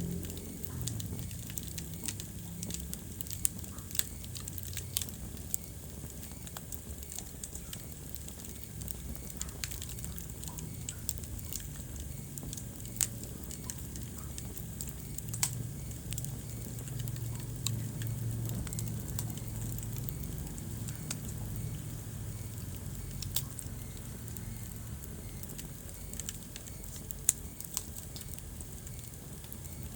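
Wood fire burning in a fireplace, crackling with irregular sharp pops over a steady low rumble of flame.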